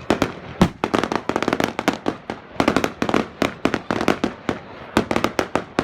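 Fireworks going off: a rapid, irregular string of sharp bangs and crackles, packed most densely about a second in and again around three seconds in.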